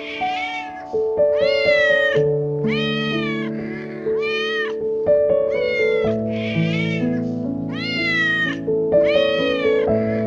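A cat meowing over and over, about a dozen short meows with a rise and fall in pitch, over background music with held notes.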